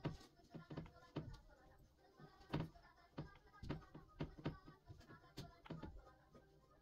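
Light knocks and clicks of household items being handled and set down, about a dozen at irregular intervals.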